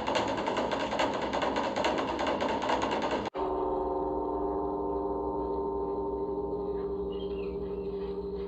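A gong ringing on with several steady tones that slowly fade, entering at an abrupt cut about three seconds in; before the cut, a dense pulsing clatter.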